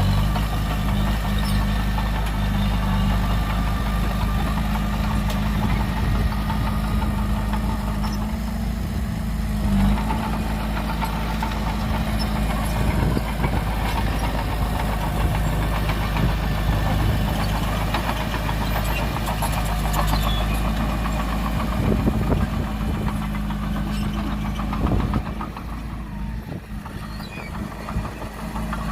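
Heavy earthmoving diesel engine running steadily at low speed, with a few knocks; it gets quieter about 25 seconds in.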